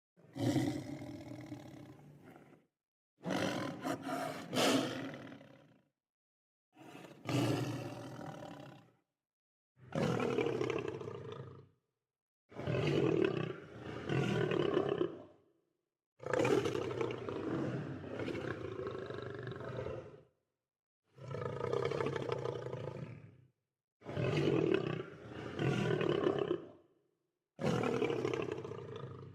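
Lion roaring and growling in a series of about nine separate calls, each two to four seconds long, with dead silence between them.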